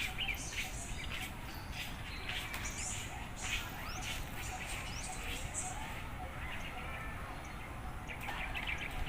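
Small birds chirping, with short scattered calls and quick rising notes, over a steady low background rumble.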